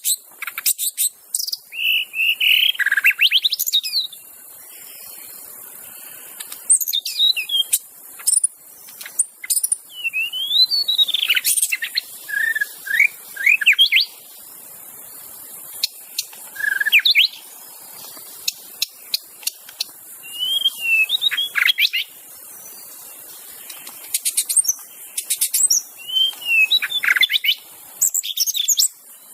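White-rumped shama singing its natural wild song, without mimicked calls: bouts of clear, sweeping whistled phrases and quick chips, broken by short pauses.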